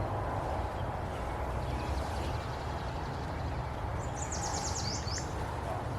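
Steady rushing of river water, with a bird singing a quick trill of high, falling notes about four seconds in.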